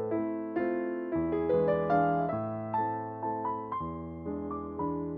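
Background music: a gentle piano or electric-piano melody, notes struck one after another and left to ring and fade.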